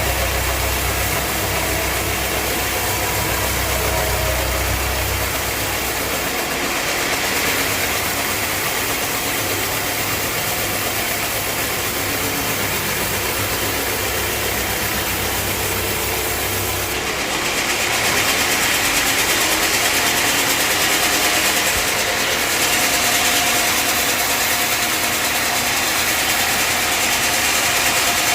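Sawmill machine running with a steady, dense mechanical noise. About two-thirds of the way through, the low rumble fades and a louder, higher-pitched noise takes over, as when the saw's load changes.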